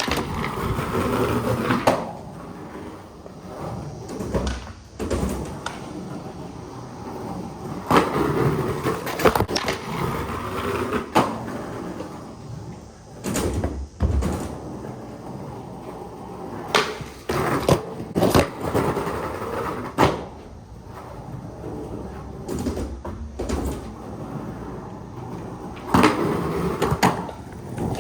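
Skateboard rolling on concrete, with a steady rumble broken by many sharp clacks and impacts from pops, landings and the trucks striking a curb in slides and grinds.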